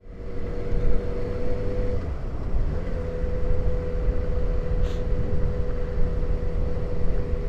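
Motorcycle engine running steadily under way, with a low rumble of wind and road noise. The engine note breaks off about two seconds in and picks up again a second later.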